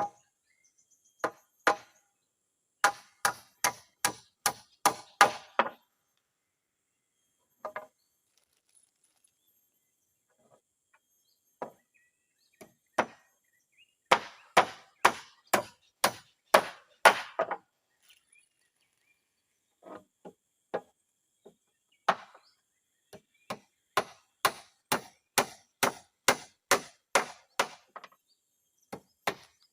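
Hammer driving nails into wooden floorboards: runs of sharp blows, about two to three a second, broken by pauses.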